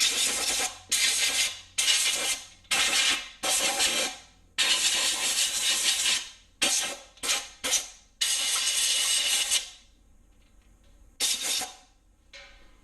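Compressed-air blow gun blowing off freshly installed main bearings in an engine block: about a dozen sharp hissing blasts, mostly short, with two longer ones of a second or more in the middle, and a last short blast near the end.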